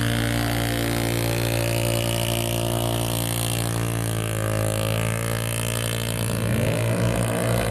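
An off-road vehicle's engine running steadily; its pitch dips a little about halfway through and rises again near the end as it revs.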